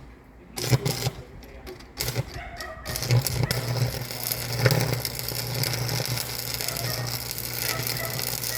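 Mechanical clicking and knocking, then from about three seconds in a machine running with a steady low hum.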